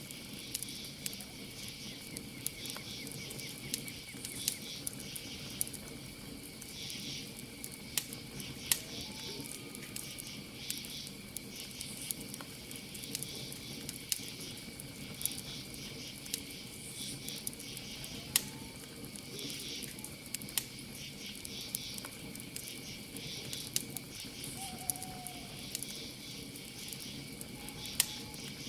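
Campfire crackling, with sharp pops every second or so, over a steady chorus of crickets chirping in rapid pulses.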